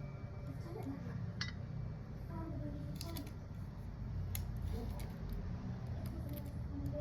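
A few light clicks and taps over a steady low hum, with faint voices in the background.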